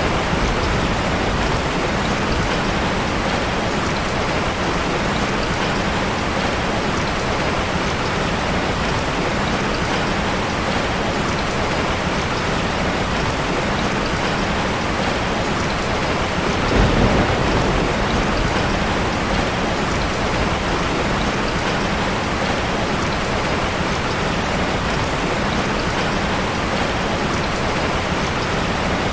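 Heavy rain falling steadily in a dense, even hiss, with a brief low rumble a little past halfway.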